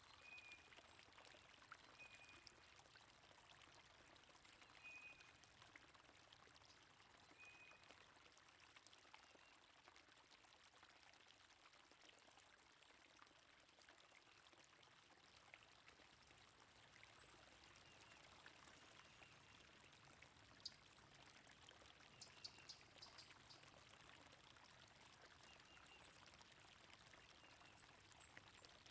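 Faint, steady running water of a stream, with small birds chirping over it: a short call repeated every two to three seconds in the first eight seconds and again in the second half, and a brief run of higher chirps a little past twenty seconds.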